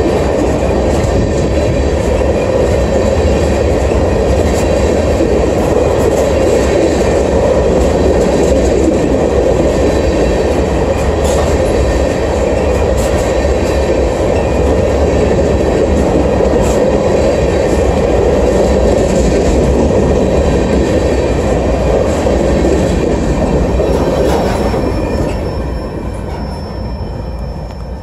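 Empty open-top hopper cars of a freight train rolling past close by: a steady loud rumble of steel wheels on rail with scattered clicks, fading over the last few seconds as the end of the train goes by.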